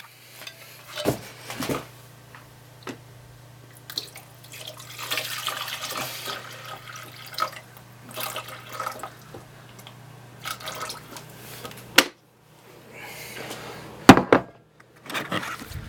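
Water poured from a jug into a filter coffee machine's water reservoir in stops and starts, with a sharp knock near the end.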